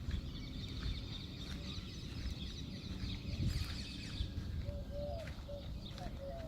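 Many small birds chirping in a busy, overlapping chorus. About five seconds in, a run of short, lower-pitched calls with little upward lifts takes over.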